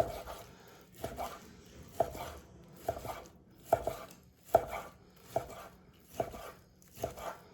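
Knife chopping grilled ribeye on a cutting board: a steady series of sharp knocks, roughly one a second, each stroke striking the board.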